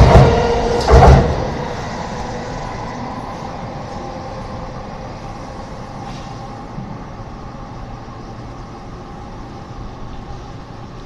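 323 series electric train pulling away: two sharp wheel knocks over rail joints in the first second, then the running sound drops off quickly to a low, steady rumble as the train moves away.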